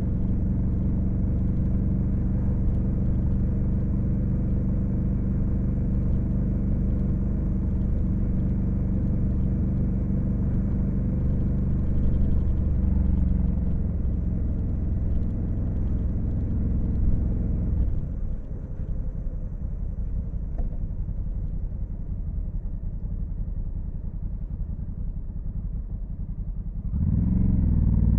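Honda Africa Twin CRF1100L's parallel-twin engine running under way at a steady speed. About two thirds of the way through it drops off the throttle and goes quieter, and near the end it accelerates hard, its pitch rising.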